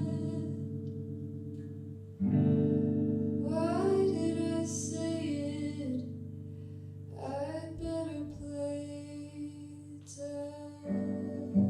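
Live guitar music: sustained chords ringing, a new one struck about two seconds in and again near the end, with a wordless sung or hummed melody gliding over them.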